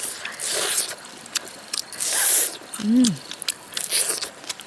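Close-up eating sounds: wet smacking and chewing as pieces of cooked fish are picked apart and eaten, with a short hummed "mm" about three seconds in.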